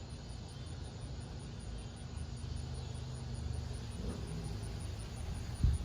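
Low, steady rumble with a faint hiss over it, easing slightly about four seconds in.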